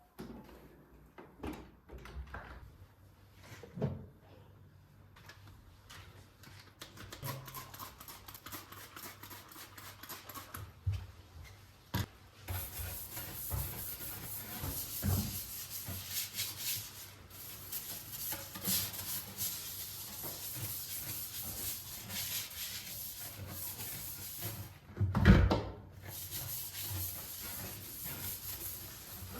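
Kitchen work: objects handled and set down, with scattered clicks, knocks and rubbing. A steady high hiss sets in about halfway through, broken by one loud thump near the end.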